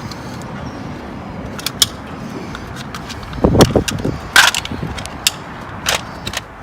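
Metal hand tools clinking and knocking: a handful of sharp clinks and clanks of sockets and wrench, loudest between about three and a half and four and a half seconds in, over a steady background hum.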